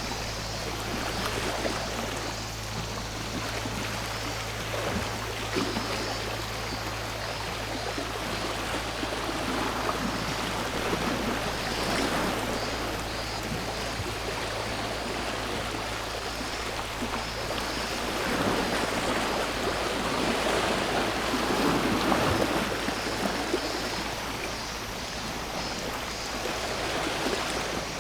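Sea waves washing in on the shore, a steady wash with a larger swell of surf about two-thirds of the way through.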